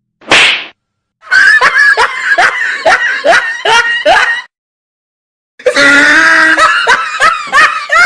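Loud laughter: a short shriek, then a rapid run of laughs at about three a second, and after a pause of about a second a second stretch of laughing near the end. Each part starts and stops abruptly, with dead silence between them.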